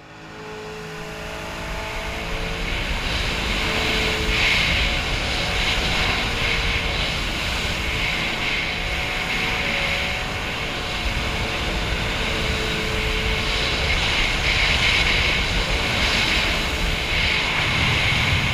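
Sea-Doo personal watercraft engine running under way, with a loud rushing hiss over it. The sound comes up out of silence over the first couple of seconds, then holds steady.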